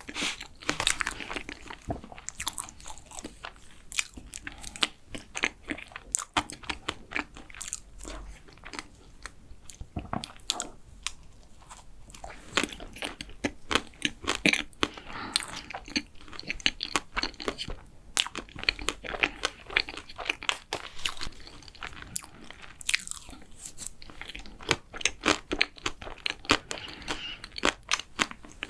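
Close-miked chewing and biting of a chewy chocolate macaron, with many quick, sticky, wet mouth clicks coming in irregular bursts.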